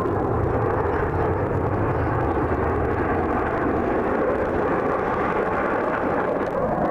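Fixed-wing aircraft engine noise, a steady loud drone.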